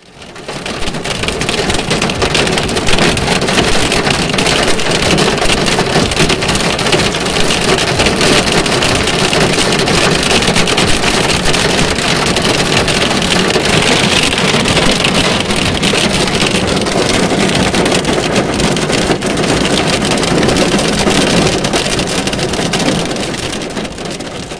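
Heavy rain falling on asphalt: a dense, steady hiss that fades in over the first two seconds and fades out near the end.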